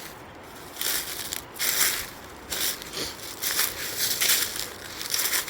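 Footsteps crunching over the rough, rocky forest floor at a steady walking pace, about two steps a second.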